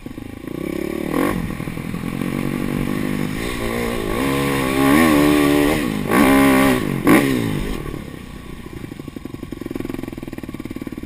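Husqvarna TE 310 enduro motorcycle's single-cylinder four-stroke engine revving up and down under the rider, loudest in the middle. It drops back to a low, even chug for the last few seconds.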